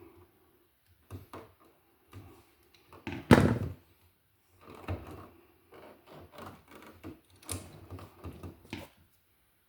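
Hand tools and a wall receptacle being handled while the bare ground wire is wrapped around the receptacle's green ground screw: scattered small clicks and knocks of metal and plastic, with one louder knock about a third of the way in.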